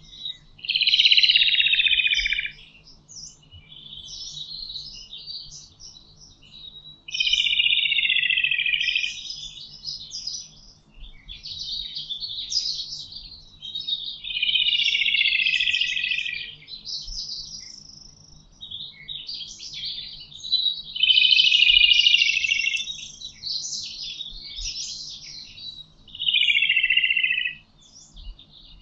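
A chorus of wild forest birds singing. One bird repeats a loud song phrase of about two seconds, falling in pitch, five times at intervals of five to six seconds, while other birds give shorter, higher chirps in between.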